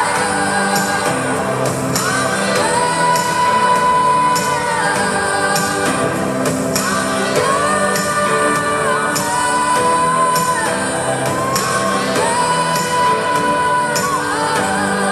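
Live pop concert heard from the audience: a female singer holds long notes, sliding between pitches, over the band, with shouts from the crowd.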